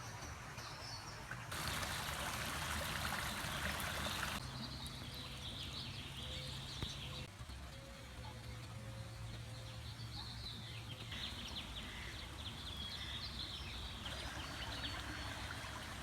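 Ducklings peeping in many short, high calls across a series of short clips. One clip, from about a second and a half to four seconds in, is covered by a loud hiss like running water.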